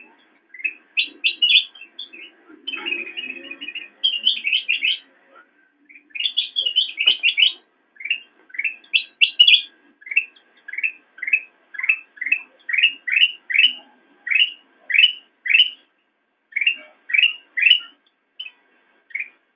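Kutilang emas bulbul singing: quick bursts of chattering notes, then a long series of rising chirps at about two a second.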